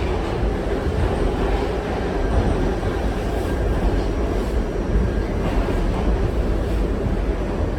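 R68 subway train running along the track, heard from on board as a steady, loud rumble.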